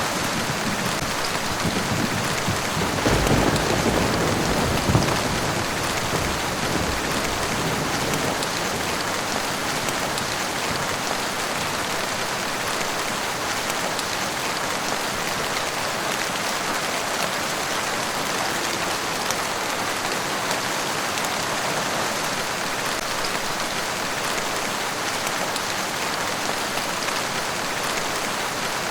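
Steady rain falling and pattering on surfaces, with a low rumble of thunder dying away in the first few seconds.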